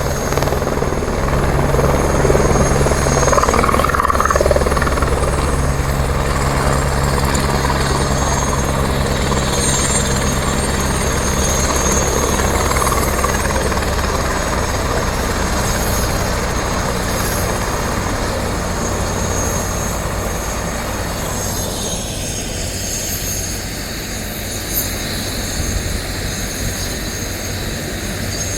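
Helicopter in flight: its rotor and turbine engine running with a steady, loud drone.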